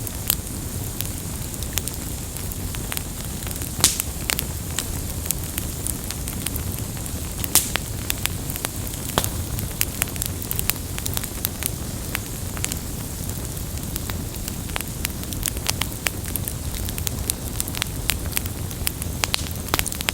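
Campfire burning: a steady hiss and rumble of flames with irregular sharp crackles and pops of burning wood, a few louder pops standing out.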